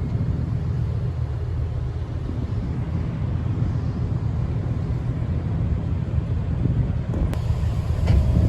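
Steady low drone of a car ferry's engines heard on board, with a faint hiss of wind and water above it.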